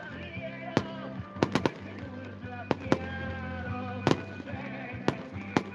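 Fireworks going off, about nine sharp bangs at irregular intervals, some in quick clusters, over music.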